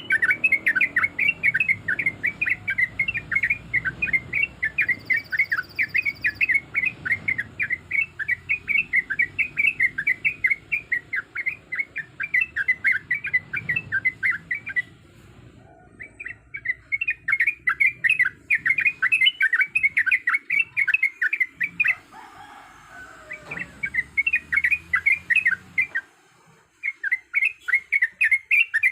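Yellow-vented bulbul (trucuk) singing a long, fast run of bubbly chirping notes, about three a second. The song breaks off briefly about halfway through and twice more near the end.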